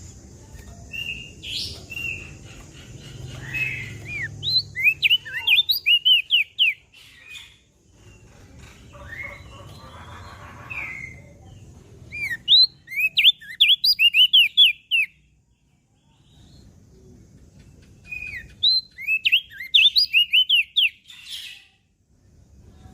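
Opior jambul (crested white-eye) singing: three bursts of rapid, sharp chirping notes, each run lasting about two to three seconds with short pauses between.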